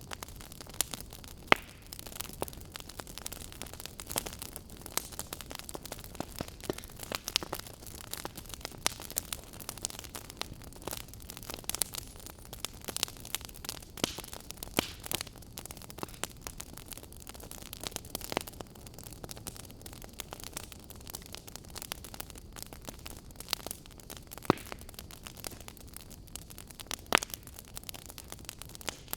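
Fire crackling: irregular sharp pops and snaps over a steady hiss, a few pops louder than the rest.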